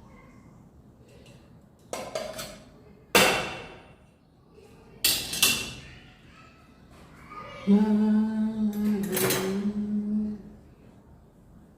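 Kitchen dishes clanking, set down or knocked together three or four times, each with a short ringing decay. Then a person hums one steady note for about three seconds.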